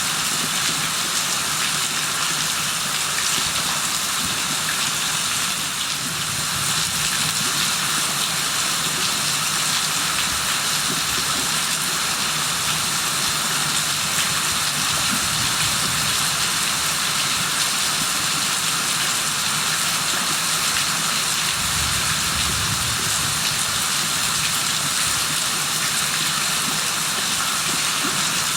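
Steady rain falling, a continuous even hiss that holds at one level throughout.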